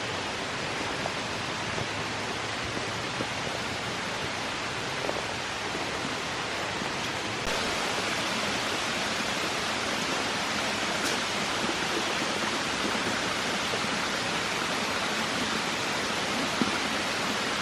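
Water rushing down small tiered waterfalls and a rocky creek, a steady hiss that gets a little louder about seven and a half seconds in.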